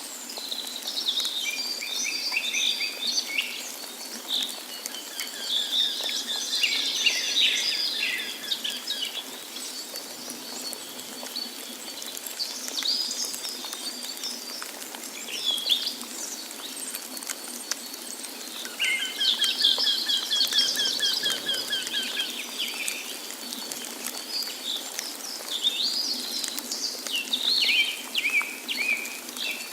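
Several songbirds singing and chirping in short phrases, twice breaking into a rapid trill, over a steady rush of water from a waterfall.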